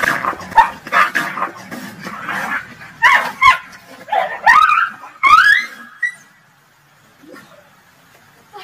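Small dog yelping in short rising cries while scuffling with a cat, mixed with sharp scuffling noises. It goes quiet about six seconds in.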